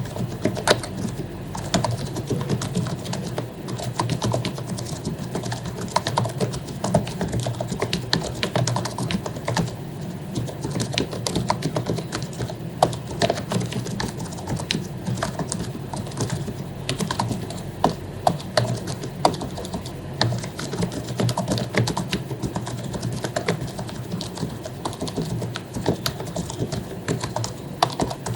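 Continuous fast typing on an HP membrane keyboard: a dense, uneven patter of soft key clicks.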